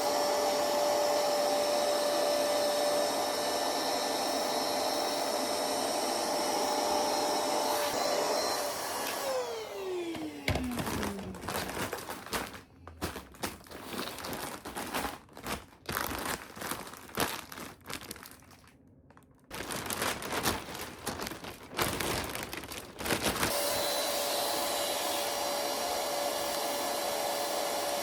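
An electric appliance's fan motor runs steadily with a constant whine. About nine seconds in it is switched off, and its pitch falls as it winds down. Irregular knocks and handling clicks follow, and about five seconds before the end the motor is switched on again at full speed.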